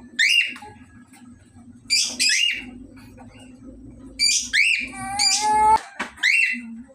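Cockatiels calling: short, sharp chirps in twos and threes, with a longer, lower warbling whistle a little past halfway.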